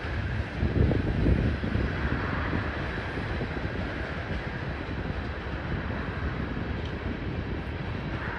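Freight cars of a CSX train, covered hoppers and tank cars, rolling past: a steady rumble of steel wheels on the rails that swells for a moment about a second in.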